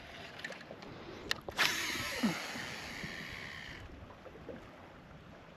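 A spinning rod cast from a kayak: a sharp click, then a hiss of line paying out for about two seconds that fades away.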